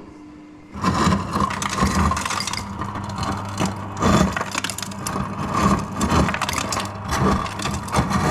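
Samsung American-style fridge's door dispenser running: a steady low hum with irregular crunching and rattling over it. It starts suddenly about a second in.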